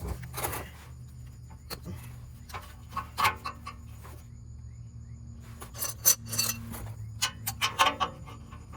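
Hand tools clinking and scraping against metal in irregular bursts, over a steady low hum.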